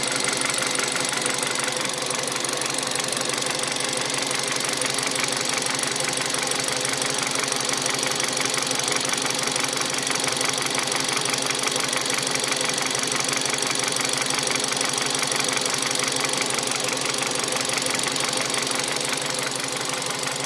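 Hyundai Solaris 1.4-litre four-cylinder petrol engine running steadily, with a rapid, even knocking over its hum. The owner hears this knock when the engine is cold and does not know its cause.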